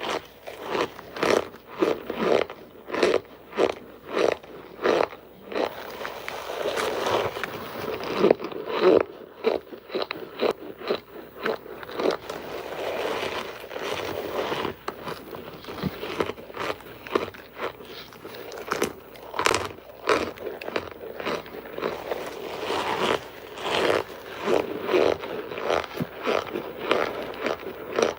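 Hard cornstarch bricks crunching and crumbling: a long run of crisp, irregular crunches, often one or two a second, with grittier crumbling stretches between them.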